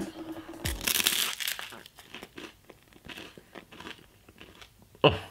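A crunchy bite into toasted sourdough topped with scrambled eggs and tomato, then chewing with small crunches that thin out over the next few seconds.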